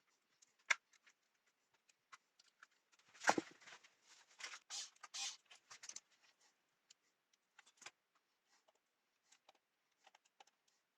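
Handling noises of small objects being worked with the hands: a sharp click under a second in, a louder knock about three seconds in, then scraping and rustling for a couple of seconds and a few more faint clicks.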